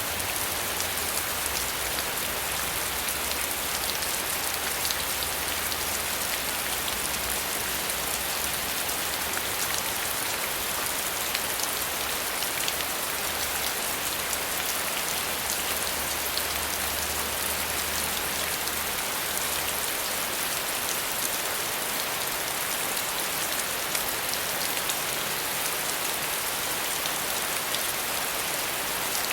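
Steady rain falling, a dense even hiss of drops with fine scattered patters on a surface.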